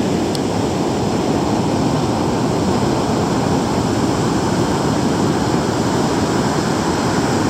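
Steady, unbroken rush of ocean surf.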